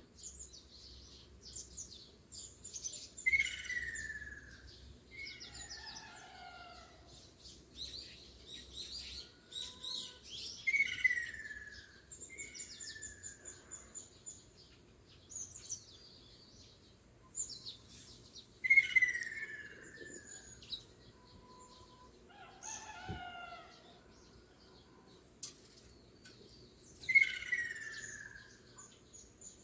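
Wild birds singing and calling: many short high chirps and quick trills, with one louder call that falls in pitch recurring four times, about every eight seconds.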